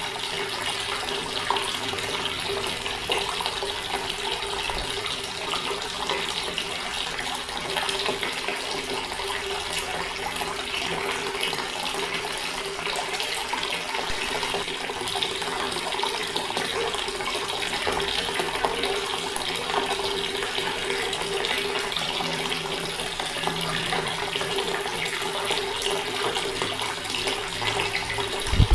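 Water running steadily from a tap in an unbroken stream, with a brief low thump near the end.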